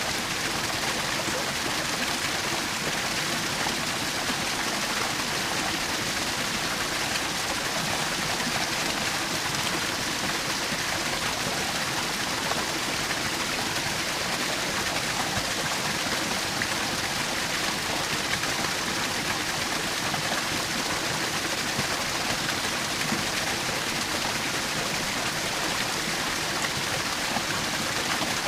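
Small woodland waterfall: water splashing and rushing in a steady, unbroken hiss.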